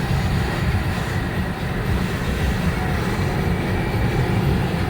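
Steady low rumble of a truck on the road, engine and tyre noise heard from inside the cab.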